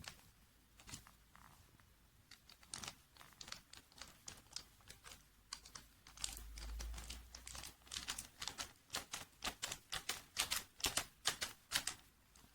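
Light clicking and tapping of small plastic pieces being handled, sparse at first and then several clicks a second in the second half, with a brief low rumble of handling in the middle.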